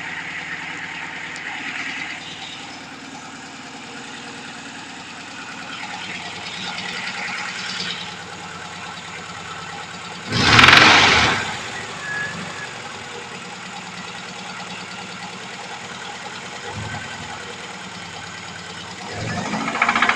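VAZ-2103 engine idling with a knock, the engine knock that the owner is recording. About halfway through, a brief loud rush of noise rises over the idle for about a second.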